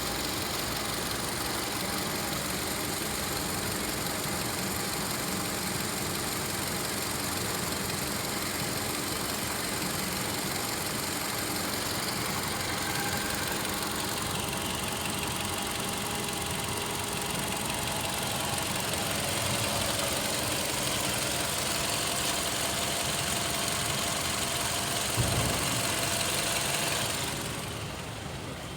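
Toyota Camry 2.5-litre four-cylinder engine, 116,837 km on it, idling steadily. The sound grows a little louder in the later part and drops off near the end.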